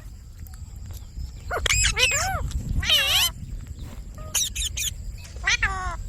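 Indian ringneck parakeet calling: several short squawks and chattering calls with sharp falling slides, starting about a second and a half in, over a steady low rumble.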